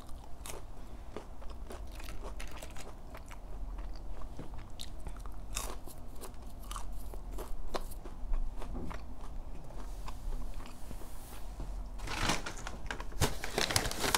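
Close-miked eating of a McDonald's chicken nugget: crunchy bites and wet chewing clicks. About twelve seconds in, a brown paper bag rustles and crinkles as it is handled.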